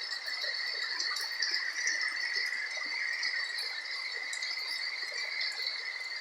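A steady chorus of calling insects, two continuous high trills, over light rain with scattered drops pattering on the roof.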